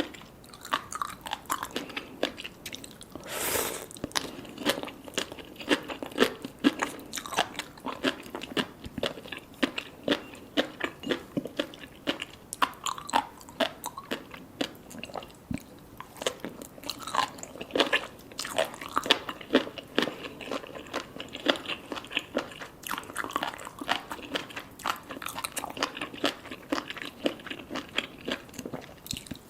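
Close-up eating sounds: a person chewing and biting salmon sashimi with tobiko and sea grapes, a dense run of small wet clicks, crunches and pops, with one louder burst about three and a half seconds in.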